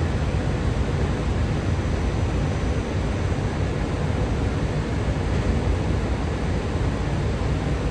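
Steady low rumble and hiss of a train moving through a station platform, with no horn and no clear engine note.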